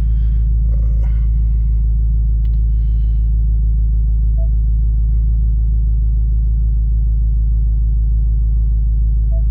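2024 Ford Mustang GT's 5.0-litre V8 idling steadily through its exhaust in track mode while it warms up.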